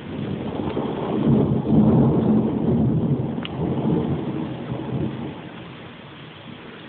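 Thunder rolling through steady rain: a deep rumble that builds about a second in, peaks, and dies away over the next few seconds.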